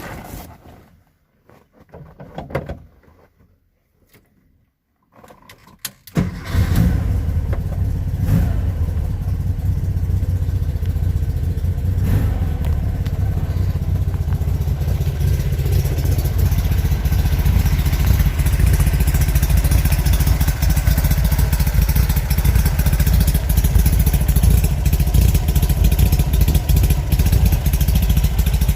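An engine starts up suddenly about six seconds in and then keeps running steadily with a deep, even rumble; before it starts there are only a few faint knocks.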